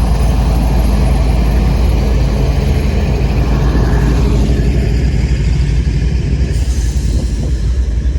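CSX freight train passing close by: a loud, steady low rumble of the train rolling over the rails.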